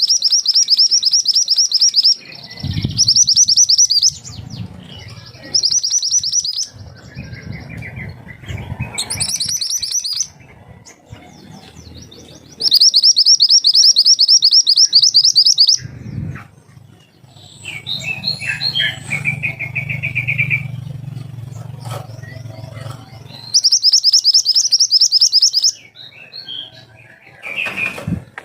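Mantenan gunung songbird singing its sharp 'tembakan' song: a handful of loud, very rapid, high-pitched trilled bursts, each one to three seconds long, with softer, lower chirps in between. A low hum runs underneath.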